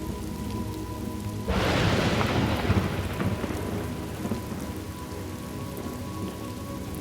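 Thunderstorm ambience: steady rain, with a clap of thunder about a second and a half in that rumbles away over a couple of seconds.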